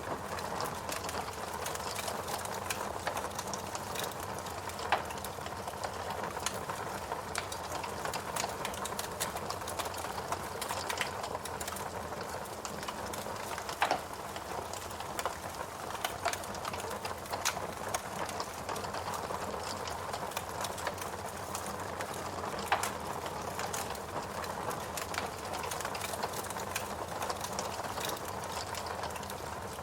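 Log fire burning in a fireplace, crackling steadily with dense small snaps and a few sharper pops, about 5, 14 and 23 seconds in.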